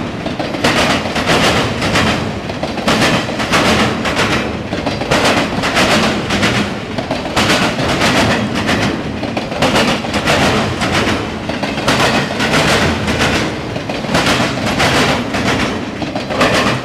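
Freight train cars rolling past at speed, with a steady rumble and rhythmic clickety-clack as the wheels strike rail joints, about one or two clacks a second.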